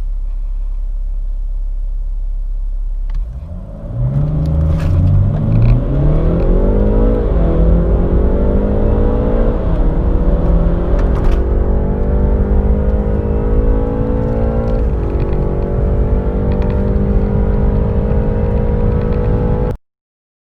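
Car engine idling with a low rumble, then accelerating hard from a standstill about three seconds in, its pitch climbing and dropping back at each gear change, about three shifts, before the sound cuts off abruptly near the end.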